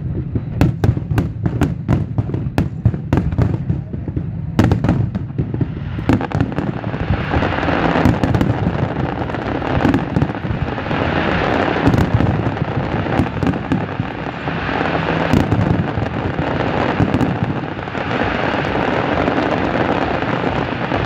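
Aerial fireworks display. For the first four or five seconds there is a rapid string of shell bursts, several bangs a second. After that comes a dense, continuous crackle from a barrage of crackling gold stars, broken by an occasional louder bang.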